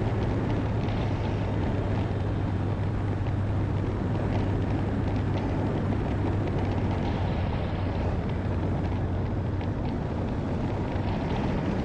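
Honda motorcycle under way at a steady speed: a steady low engine hum under loud, even rushing noise. The engine hum drops away near the end.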